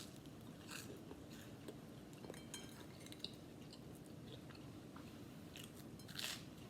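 A person chewing a bite of a toasted bread-and-Nutella sandwich, faint, with a few soft crunches.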